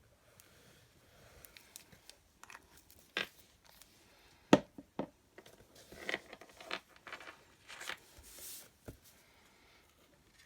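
Card stock being handled and stuck onto a mat: rustling with several sharp taps and clicks, the loudest a little under halfway through.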